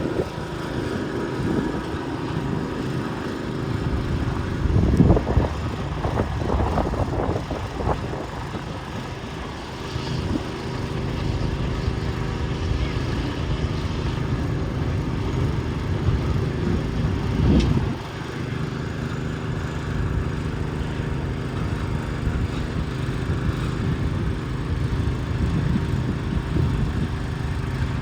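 Garden tractor engine running steadily, with louder surges about five seconds in and again near eighteen seconds, where it briefly drops back.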